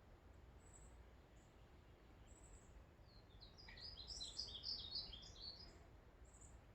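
Faint songbird singing a quick run of short, high chirping notes from about three and a half seconds in, with a few single high notes before it.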